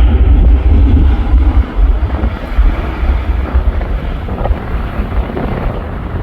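Strong gusty wind buffeting the microphone, a heavy low rumble that rises and falls, over the jet engine noise of a Boeing 737-900 fading away.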